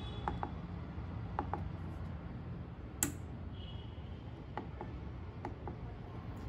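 Scattered faint clicks of keys being pressed on a spot welder's digital controller, with a sharper click about three seconds in and a short high electronic beep just after, over a steady low hum.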